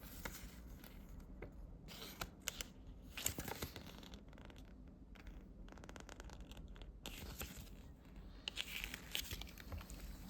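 Faint handling noises: short scrapes and clicks in a few separate clusters as the apex locator is turned over and handled.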